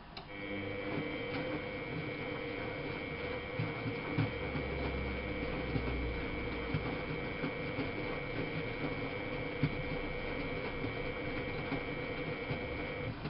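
Miele Novotronic W830 washing machine running with a steady whine and light rattling. It starts just after the beginning and cuts off shortly before the end.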